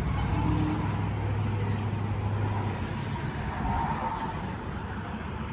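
2020 Dodge Charger Scat Pack's 392 Hemi V8 running at idle just after startup, with its mid mufflers deleted. It makes a steady low exhaust rumble that eases slightly about halfway through.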